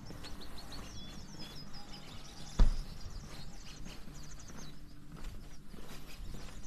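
Small birds chirping, short high calls repeated in quick runs, over a faint outdoor background. One sharp knock about two and a half seconds in is the loudest sound.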